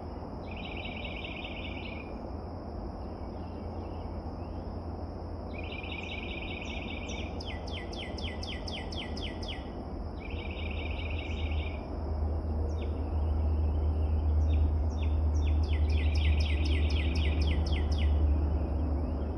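A songbird singing repeated fast trills, each phrase a second or two long, several times over. Under it runs a steady high-pitched hiss and a low rumble that grows louder about twelve seconds in.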